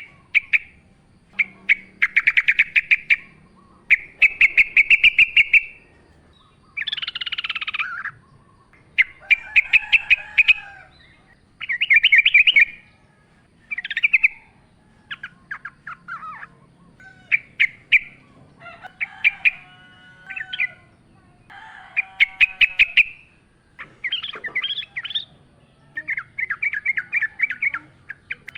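Yellow-vented bulbul (trucukan) singing: a string of short, fast chattering phrases, each a second or two long, with brief pauses between them.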